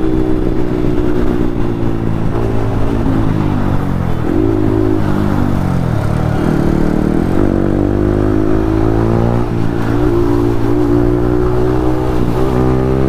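Yamaha MT-15's single-cylinder engine through an Akrapovic exhaust, running at speed. It drops in pitch about four seconds in and again about six seconds in, then climbs back up under throttle, over steady wind rush.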